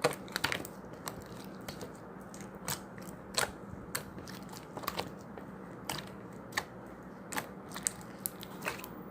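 Slime being squeezed and pressed by hand, giving irregular sharp clicks and pops, roughly one or two a second.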